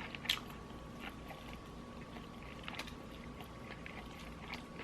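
Quiet chewing of Popeyes fried chicken, with scattered small mouth clicks and crunches, one a little sharper just after the start.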